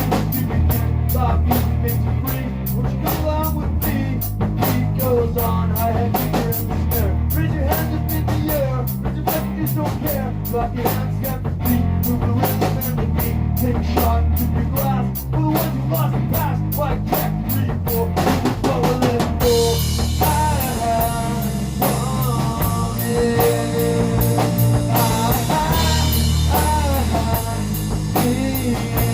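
Rock music on a full drum kit with bass and melody, played tuned a half step down, with a steady kick pattern under quick, even hi-hat ticks. About two-thirds of the way in, the cymbals open into a continuous wash.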